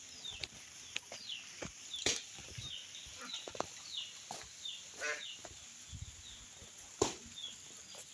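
Young fowl peeping: a steady run of short, falling high-pitched peeps, about two a second, with a few sharp knocks in between.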